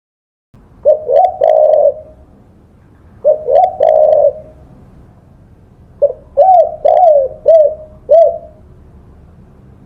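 Spotted dove (tekukur) cooing. After half a second of silence come two full coo phrases about two seconds apart, then a quicker run of five short coos from about six seconds in.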